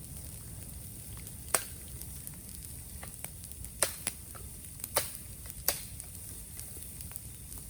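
Bamboo burning in an open bonfire, crackling steadily with small ticks and about five sharp, loud pops scattered through the middle of the stretch.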